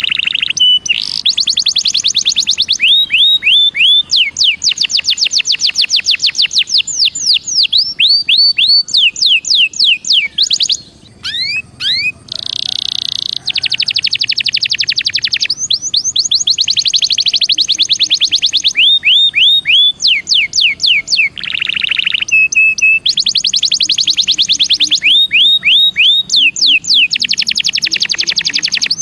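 Belgian canary singing: long, fast trills of rapidly repeated down-slurred notes, one roll after another, broken briefly about eleven seconds in.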